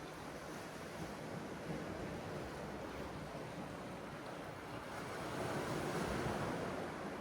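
Sea surf washing ashore with wind, a steady rushing that swells louder about five seconds in as a wave comes in.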